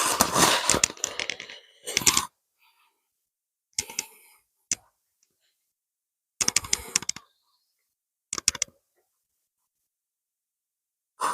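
Dry undergrowth crackling and rustling in about six short, separate bursts full of sharp clicks. The first burst is the longest, at over a second, and there is near silence between them.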